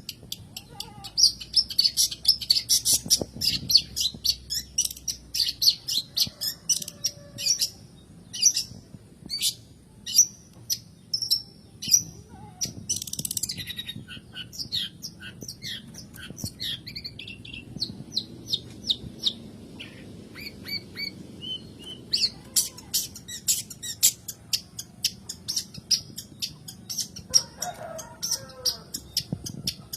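Long-tailed shrike (cendet/pentet) chattering in fast runs of short, scratchy high notes, with one harsh rasping burst a little before the middle. The notes thin out for a few seconds, then rapid chatter resumes.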